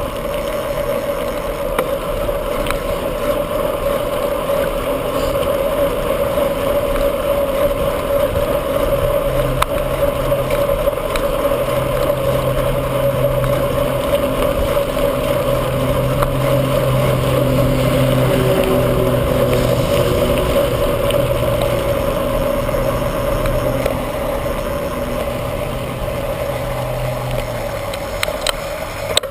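Wind and road noise from a bicycle ride filmed on a bike-mounted camera, a steady rushing haze. A low steady hum joins about nine seconds in and fades out near the end.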